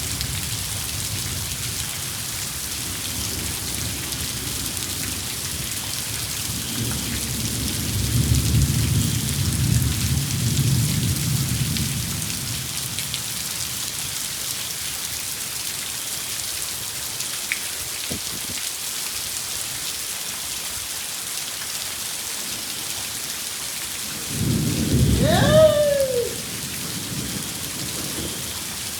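Heavy rain falling steadily, with two rolls of thunder. The first is a long low rumble about a quarter of the way in, and the second is a louder, shorter rumble near the end, joined by a brief falling tone.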